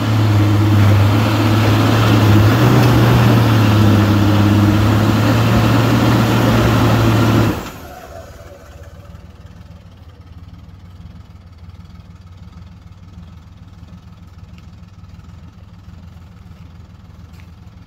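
Off-road vehicle engine revved hard and held at high revs for about seven seconds, then dropping away abruptly, leaving only a low steady rumble.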